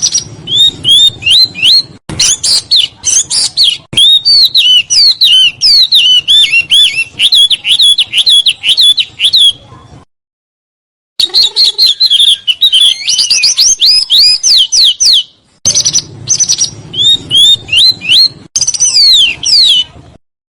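A small songbird singing fast, tightly packed runs of sweeping whistled notes, a recorded 'roll' of the kind played to train cage songbirds. The song breaks off for about a second halfway through and briefly twice more later.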